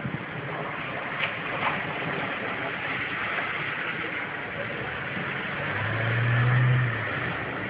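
Street ambience heard from high above: a steady hiss of traffic and a car engine, with a low engine drone swelling for about a second around six seconds in.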